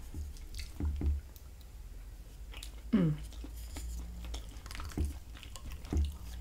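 Close-miked chewing and wet mouth sounds of a person eating, with light clicks of a wooden utensil against a ceramic plate. About halfway through there is one short sound falling in pitch, the loudest moment.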